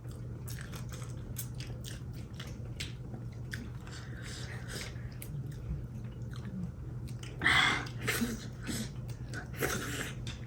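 Close mouth sounds of people eating a seafood boil: chewing and biting, with frequent small clicks and crackles of shells being handled. One louder noisy burst about seven and a half seconds in, over a steady low hum.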